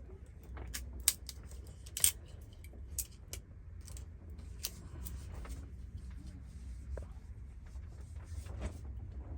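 Irregular sharp clicks and light clinks from small objects being handled, the two loudest about one and two seconds in, over a low steady rumble.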